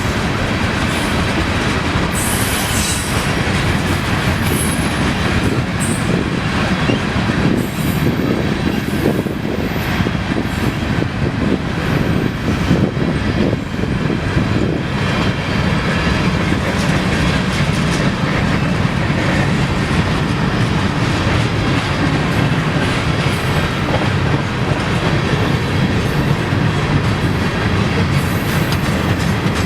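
A train rolling past close by, its wheels clicking steadily over the rail joints, with brief high-pitched wheel squeals about two seconds in and again near the end.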